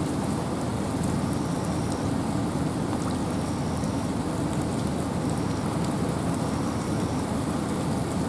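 Steady rain and wind in a forest: an even rushing, heaviest in the low range, with scattered drips pattering on top.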